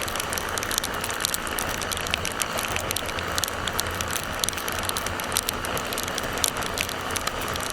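Motorcycle riding on the road: a steady rush of engine, wind and road noise with a low rumble, with many sharp irregular ticks all through.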